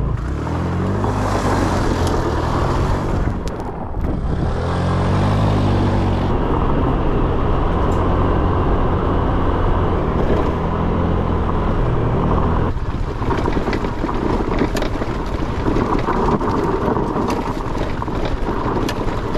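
Honda Click 125cc scooter's single-cylinder engine running on a rough dirt road, rising in pitch twice as it accelerates and then holding steady, with wind and road rattle. About two-thirds of the way through, the engine tone drops away, leaving wind rush and knocks.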